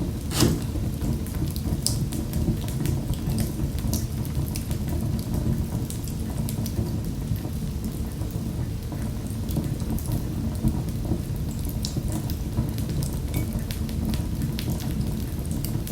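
Fire in a fireplace crackling: a steady low rumble of flames with scattered sharp pops and snaps, the loudest about half a second in.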